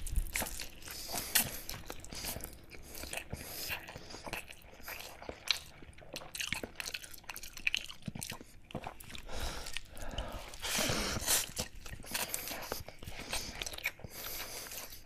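A person biting into and chewing food close to the microphone, with many sharp, irregular mouth clicks.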